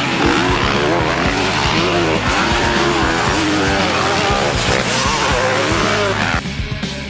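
Motocross bike engines revving up and down over background rock music. The engine sound cuts off suddenly about six seconds in, leaving only the music.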